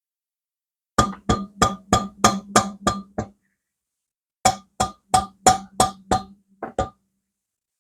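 Hammer tapping on a metal engine part: two runs of about eight quick blows each, roughly three a second, with each blow ringing briefly at a steady pitch.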